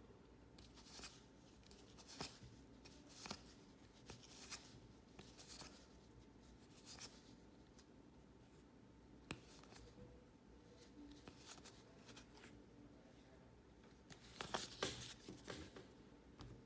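Faint handling of cardboard trading cards, one card slid off the stack about once a second, with a brief flurry of card handling near the end.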